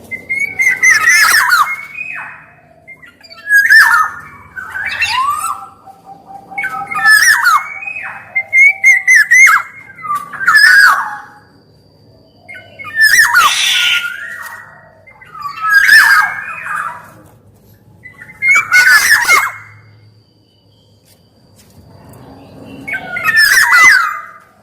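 Black-naped oriole (kepodang) calling: bouts of harsh calls mixed with whistled notes, repeated every two to three seconds, with a longer pause near the end.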